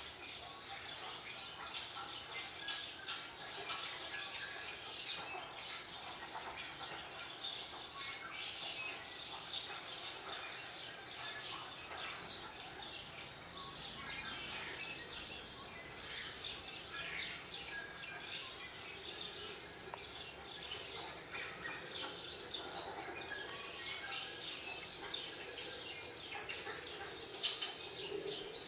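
Many small birds chirping and twittering continuously, a dense steady chorus of short calls, played from a bird video on a TV.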